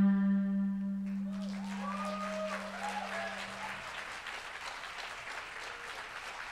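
The final held note of an amplified viola ends about a second in, while its low drone goes on under the sound for a few more seconds. An audience then applauds steadily, with a few brief whoops early in the applause.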